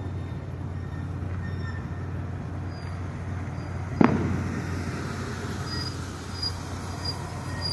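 A single firework bang about four seconds in, ringing off briefly, over a steady low rumble of outdoor background noise.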